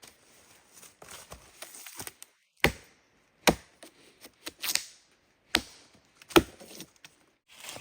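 A blade chopping into wood or a plant stem with about five sharp, irregularly spaced strikes, after a few softer knocks.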